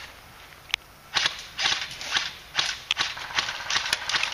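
Running footsteps crunching through dry brush, about two steps a second, beginning about a second in. A single sharp click comes just before the steps start, and a few more come near the end.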